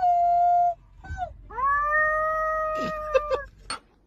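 A dog howling: a held howl, a short falling yelp, then a long steady howl of nearly two seconds, with a few clicks near the end.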